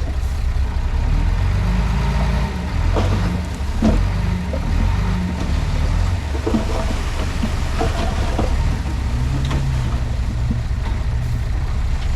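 Komatsu D31P bulldozer's diesel engine running steadily under work, with scattered short squeaks and knocks around the middle.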